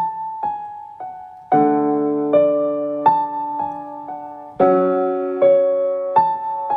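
Piano playing the slow opening of a song: three single notes stepping down, then chords struck about every second and a half, each left to ring and fade, with single notes between.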